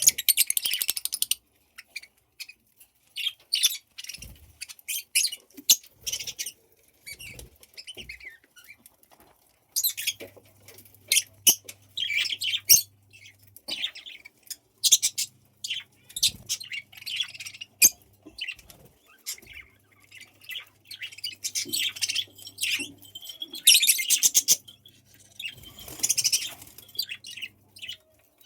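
Pet budgies chirping and chattering: rapid runs of short, high chirps in bursts, with brief quieter gaps between them.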